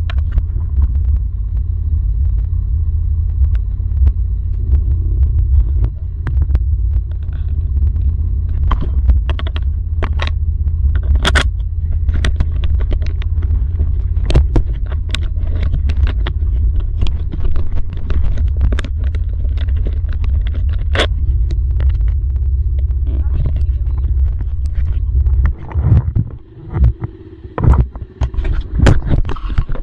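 Dirt bike being ridden: a loud, steady low rumble with scattered sharp knocks and clicks. About 25 seconds in the rumble drops away, leaving irregular thumps.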